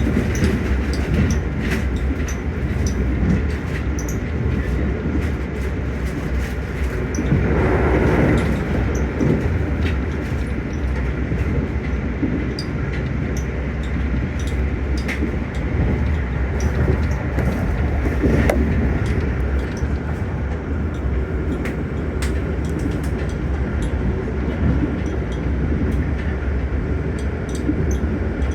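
Passenger train running on the rails: a steady low rumble with scattered light clicks, and a louder swell about eight seconds in.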